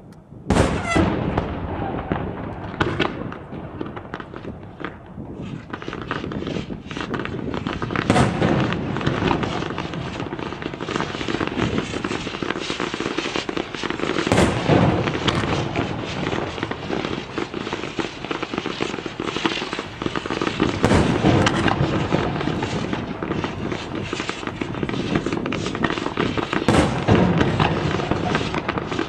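Fireworks display: a dense, continuous crackle of many small bursts, with five louder booms spread through it.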